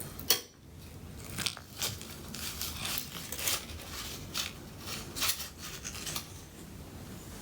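A person biting and chewing food close to the microphone: a sharp click about a third of a second in, then a run of irregular crunching noises.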